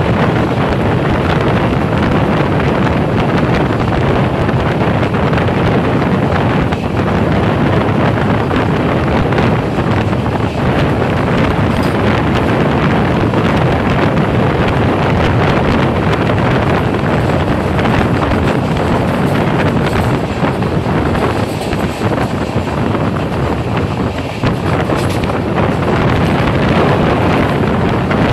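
Heavy wind buffeting the microphone over the steady running noise of a fast-moving passenger train's wheels on the rails, heard from the train's open window.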